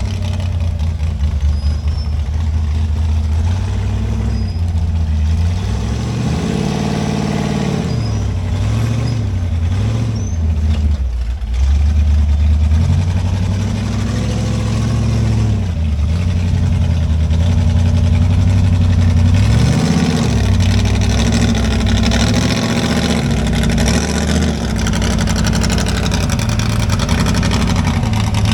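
Off-road rock-crawling rig's engine running with a steady low drone, revved up and back down in short bursts several times.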